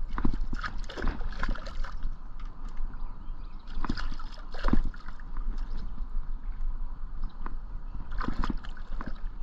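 Water sloshing and splashing with irregular knocks as a hooked white bass is landed and handled at the surface.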